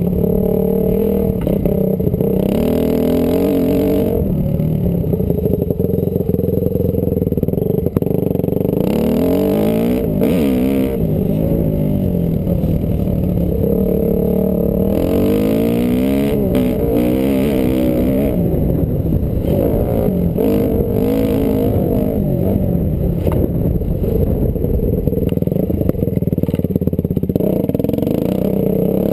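Honda CRF250R motocross bike's four-stroke single-cylinder engine, heard from the rider's seat, revving up and dropping back again and again as it is ridden hard around the track. The pitch rises and falls many times in quick succession.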